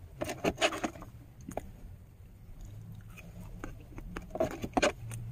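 Close-up eating: crunchy bites and chewing of fried potato snacks, in a burst in the first second and again near the end.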